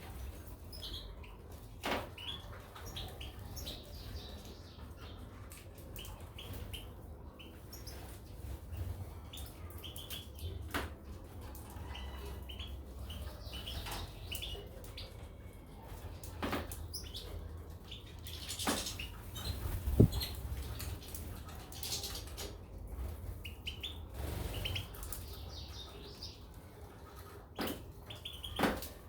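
Goldfinches and canaries chirping in short, scattered calls, with a few sharp knocks, the loudest about two-thirds of the way through, over a steady low hum.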